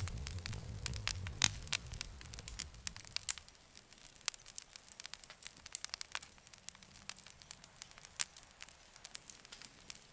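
Campfire crackling, with sharp pops scattered irregularly throughout. A low rumble under the crackles fades out about three seconds in, leaving the pops on their own.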